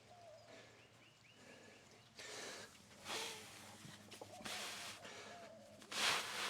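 A weightlifter's sharp, forceful breaths during a heavy barbell deadlift, in short bursts, the loudest two near the end.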